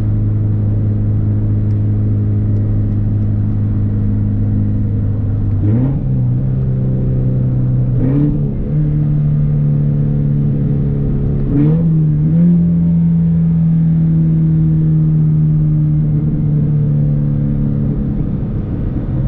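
Scion FR-S's flat-four engine running through a muffler- and resonator-delete exhaust while driving, with a loud, steady drone. The engine note rises in short steps about six, eight and twelve seconds in, then holds steady at a higher pitch.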